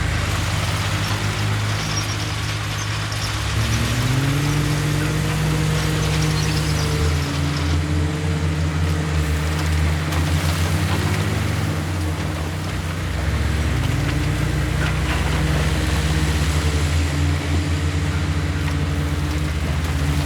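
Heavy diesel engine of earthmoving machinery running under load, revving up about four seconds in, easing back, dipping around twelve seconds and revving up again.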